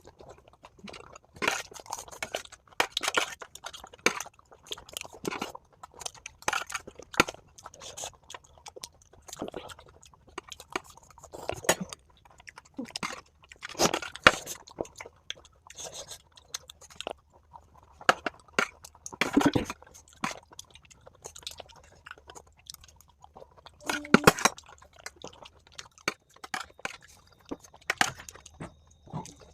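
Close-miked chewing and crunching of dahi puri, crisp puri shells filled with yogurt, with irregular crunches as each mouthful is bitten and chewed.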